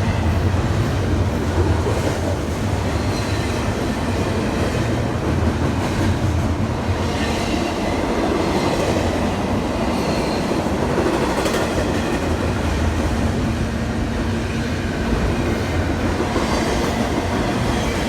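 Railroad cars rolling past on the track: a steady rumble of wheels on rail, with faint wheel squeals now and then.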